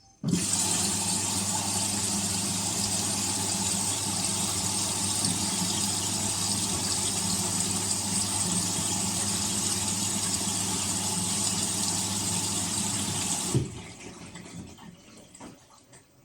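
Indesit Innex washing machine running water through with a steady electrical hum underneath, starting abruptly and stopping sharply after about 13 seconds, followed by faint small clicks and rustles.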